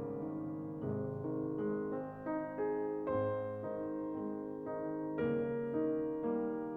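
Slow piano music: single notes and chords struck one after another, each left to ring and fade.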